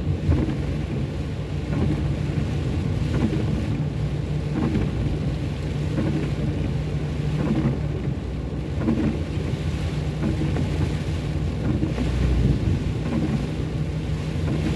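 Car cabin noise while driving in heavy rain: a steady engine and road hum under the hiss of rain on the car, with a faint swell about every second and a half.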